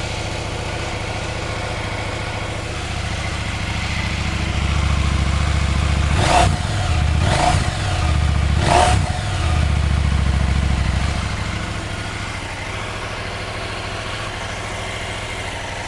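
KTM 790 Adventure's parallel-twin engine idling through its stock exhaust, with three quick blips of the throttle between about six and nine seconds in.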